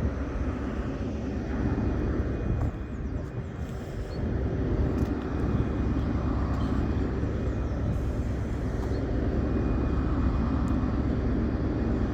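Steady low rumble of train engines running at a station platform, with faint steady tones over it.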